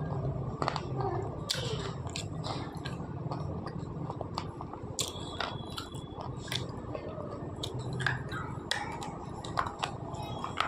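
Slate pencil being bitten and chewed: irregular sharp crunches, one after another.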